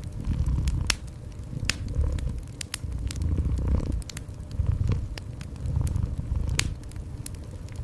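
Cat purring in low swells that rise and fall about once a second, under a wood fire crackling with frequent sharp pops.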